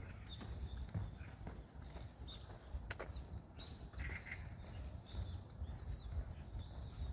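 Small birds calling, a quick run of short high chirps about a second in and more scattered short calls later, over the steady low rumble and soft thuds of walking footsteps.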